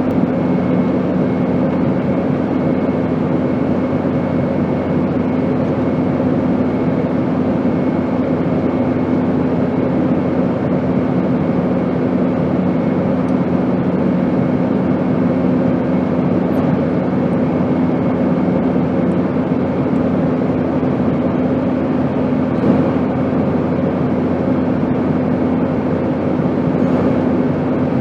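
Airplane in flight: a steady engine and airflow drone carrying a constant low hum, with one brief faint knock about 23 seconds in.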